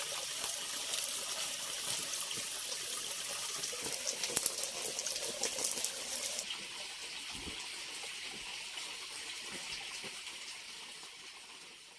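Running water splashing, with a fine crackle; it turns quieter and duller about six and a half seconds in, then fades out near the end.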